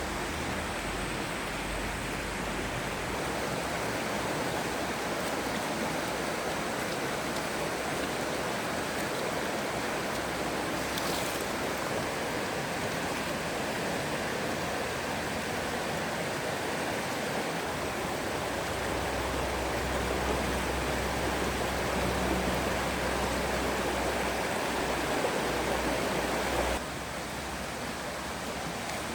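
Stream water running steadily, a continuous rushing flow; the level drops abruptly a little near the end.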